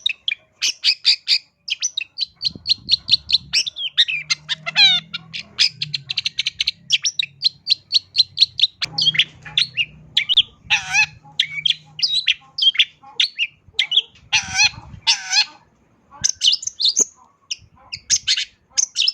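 Long-tailed shrike (cendet) singing a rapid, varied song of quick chips, trills and harsher notes, full of phrases mimicked from other birds. It is a bird in full song.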